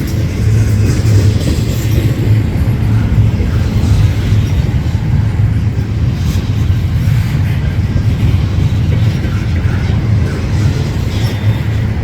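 Freight train rolling past, a steady low rumble of the cars on the rails.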